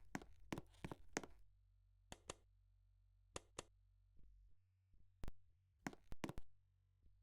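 Near silence broken by a dozen or so faint, irregular clicks and knocks.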